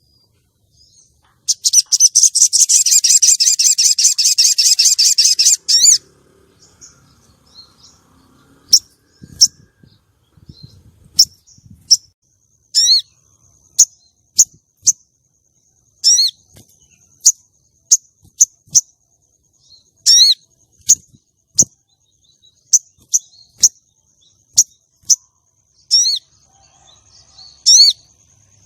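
Female sogon (crimson sunbird) calling: a loud, rapid high trill for about four seconds near the start, then a string of sharp high chirps roughly one a second, and another brief trill near the end. A faint steady high tone runs behind the chirps.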